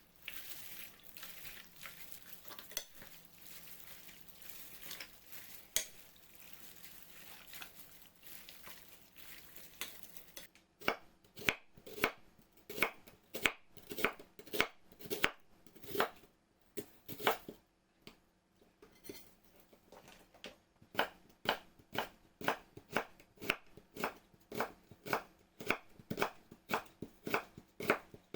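Kitchen knife chopping on a cutting board in steady strokes, about two to three a second, with a short pause partway through. The chopping starts about ten seconds in, after a stretch of soft hiss with a few light clicks.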